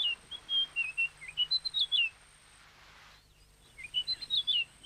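Flappet lark singing: two quick phrases of high whistled notes, the first about two seconds long, the second starting about four seconds in.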